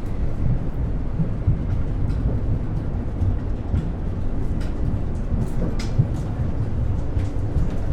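Ride inside an Ivolga electric train: a steady low rumble of the moving train, with scattered sharp clicks and rattles.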